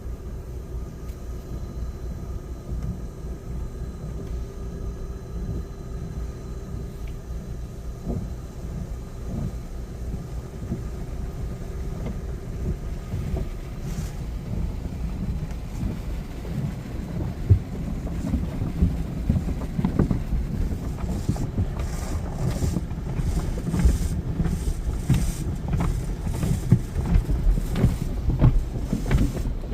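Tunnel car wash heard from inside a car moving along the conveyor: a steady low rumble of the wash equipment, growing louder in the second half as water spray hisses and strikes the car in irregular knocks.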